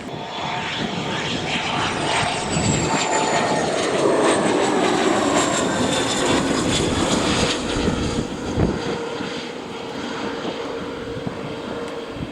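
Jet airliner passing close by, a loud engine roar with high whining tones that fall steadily in pitch as it goes past, loudest midway and then fading a little.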